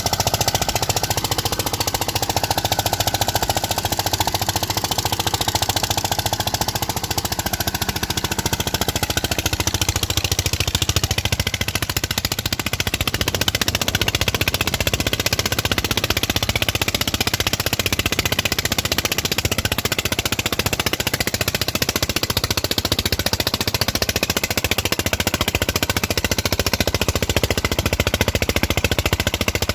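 Tractor engine running hard under load with a rapid, steady chugging as it pulls a harrow.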